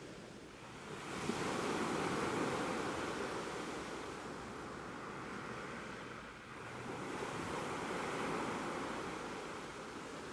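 Ocean surf: two waves swell and wash in turn, the first building about a second in, the second rising again after a short lull past the middle and easing off near the end.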